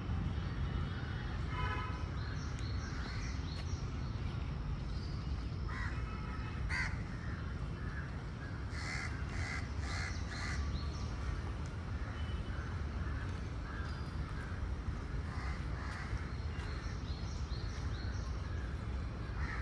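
Crows cawing repeatedly in short runs of harsh calls, with a run of four about halfway through. Smaller birds chirp higher up, over a steady low rumble.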